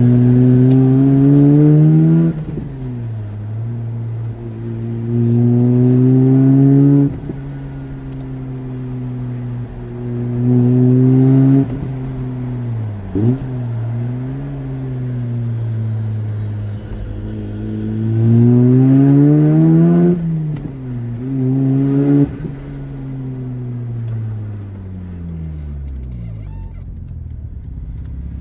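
Mazda RX-8's Renesis twin-rotor rotary engine pulling through several short bursts of acceleration in traffic. The pitch climbs and the sound grows loud with each burst, then drops back between them. Near the end it falls away to a lower, quieter running note.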